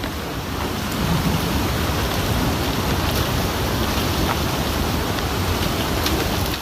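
Heavy rain falling steadily, a loud dense hiss with a few faint drop ticks.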